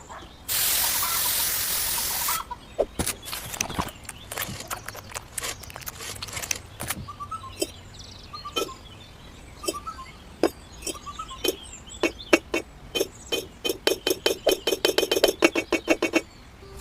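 A short burst of hissing noise, then a series of small hard clicks and taps that quicken into a rapid run of taps near the end.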